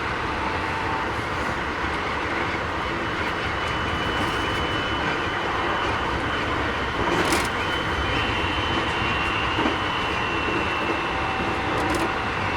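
Keikyu 1000 series electric train running, heard from inside the car: steady wheel and rail rolling noise with a thin high whine from its Mitsubishi IGBT inverter drive, which eases slightly lower toward the end. Two clacks over rail joints come about seven seconds in and again near the end. This unit runs slightly louder than other sets of the class, which the uploader calls an abnormal noise.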